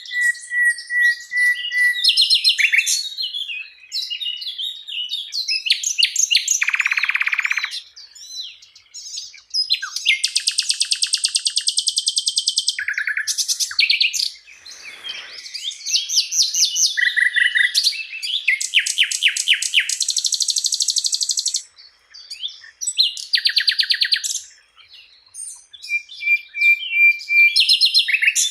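Songbird singing a long, varied song of fast trills, rapid repeated notes and buzzy phrases, with short pauses between phrases and a held whistled note near the start and again near the end.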